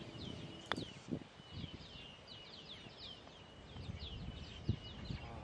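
Birds calling in runs of quick falling chirps, faint. About a second in, a single sharp click: the putter striking the golf ball.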